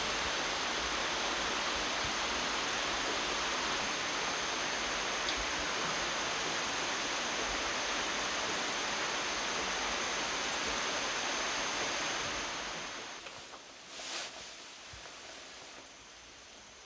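Steady rushing hiss that fades down about twelve seconds in, with one short soft bump soon after.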